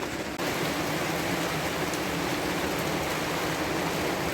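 Heavy rain pouring steadily, an even hiss that steps up abruptly in loudness just under half a second in.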